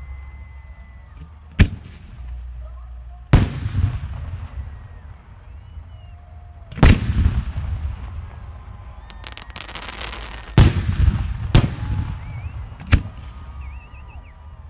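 Aerial fireworks shells bursting: about six loud booms spread irregularly, each trailing off in a low rumble, with a burst of rapid crackling shortly before the fourth boom, around ten seconds in.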